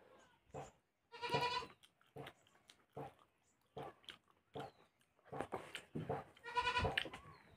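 Wet chewing and lip-smacking of someone eating rice and chicken by hand, sharp smacks about once or twice a second. Two short wavering bleats, like a goat's, one about a second in and one near the end, are the loudest sounds.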